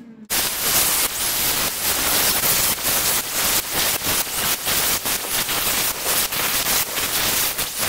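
Wire-feed (MIG) welder arc running, a steady sizzling crackle that starts suddenly just after the start.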